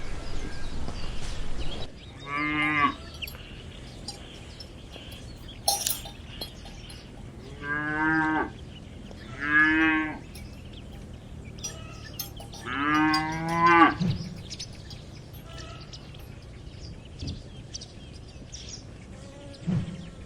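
Cattle mooing: four moos, each about a second long, at irregular intervals. The last, near the end, is the longest and loudest.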